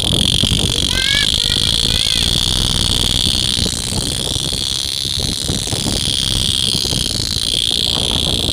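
A loud, steady, high-pitched chirring chorus of calling animals, the 'strange sound' heard along a quiet road, over a low rumble, with a few short chirps in the first two seconds.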